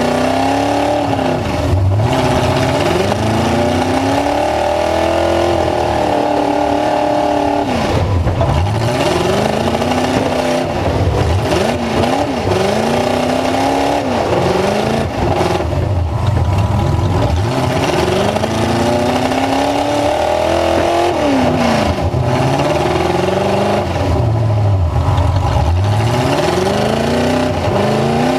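Full-size truck engine revving up and down over and over, its pitch dropping and climbing again every few seconds.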